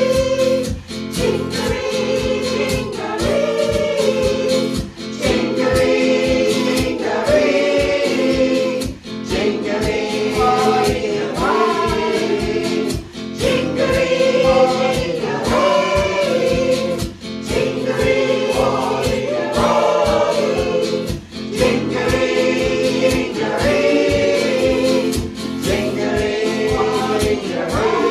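A community choir singing together, in phrases a few seconds long with brief dips between them.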